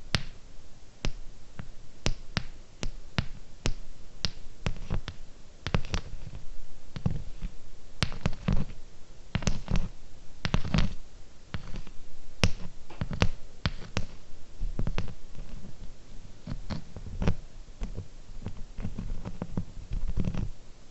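Fingernails tapping close to a sensitive microphone: irregular sharp clicks, several a second, mixed with soft low thuds.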